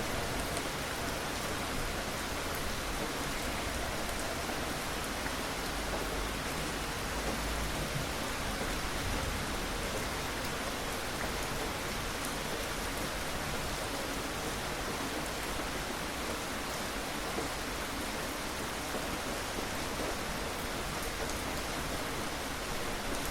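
Steady rain falling on a surface, an even hiss of drops.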